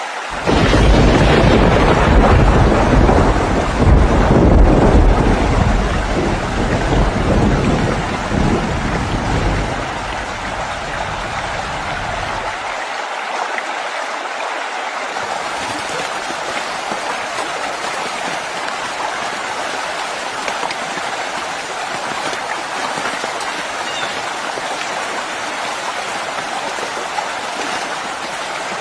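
Heavy rain in a storm, with a deep, loud rumble for the first ten to twelve seconds that then dies away, leaving a steady rain hiss.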